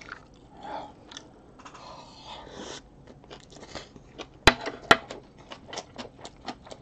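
Close-miked chewing of a mouthful of fried rice and crisp napa cabbage kimchi: soft wet chewing at first, then a steady run of crunches about three a second. Two sharp, louder clicks come about two-thirds of the way through.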